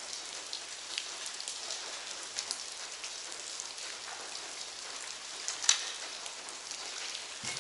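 Steady rain patter with scattered drips, and one sharper click about three-quarters of the way through.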